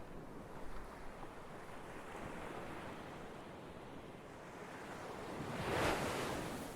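Ocean waves breaking on a shore: a steady wash of surf that builds to one louder wave crashing about six seconds in, then falls away.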